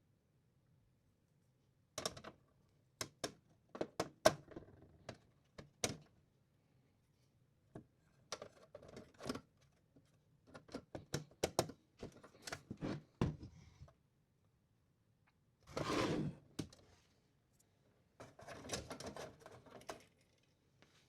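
Parts of a UPS being taken apart by hand: scattered sharp clicks and knocks, with short stretches of scraping or rustling, the longest two near the end.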